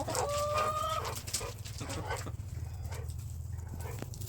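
Backyard hen giving one drawn-out call about a second long near the start, followed by a few faint scattered sounds over a low steady rumble.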